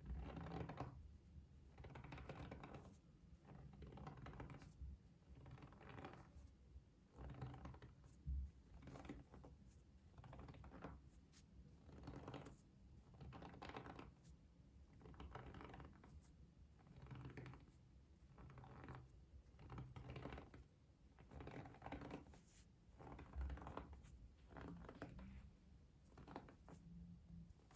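Faint ASMR trigger sounds: soft scratching strokes on a surface, repeating about once every second or so.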